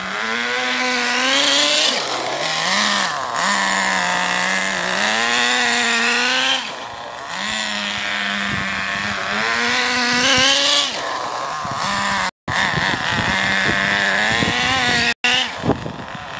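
Small nitro RC car glow engine being broken in on its fifth tank, revving up and down repeatedly: full throttle on the straights, falling back when braking for corners. The sound cuts out completely twice for a moment near the end.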